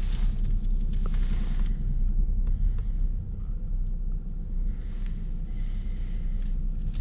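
Car engine running at low revs in reverse gear, heard from inside the cabin as the car backs slowly out of a parking bay: a steady low rumble, with a few soft rustles in the first couple of seconds as the steering wheel is turned.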